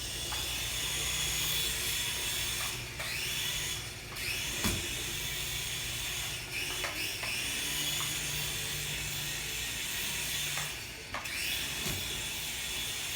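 High-pitched whine of a cheap toy RC aircraft's small electric motors. It drops out and spins back up with a rising pitch about three times, with a few short knocks.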